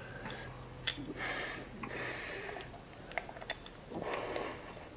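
Scattered light clicks and taps with short bursts of scraping, from parts and tools being handled during engine work.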